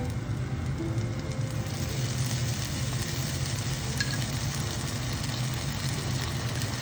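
Banana-leaf parcel of fish frying in oil in a pan, a soft sizzle that grows louder about two seconds in, over a steady low hum.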